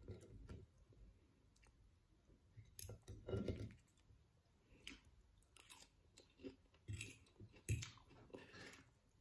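Faint close-up chewing of mouthfuls of beans and lettuce salad, with scattered light clicks of a knife and fork on a ceramic plate.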